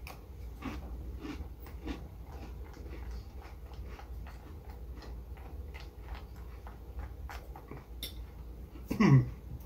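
Crunchy corn cereal being chewed, with small crackling crunches and light clicks of a metal spoon in a glass bowl. Near the end there is one short vocal sound that falls in pitch.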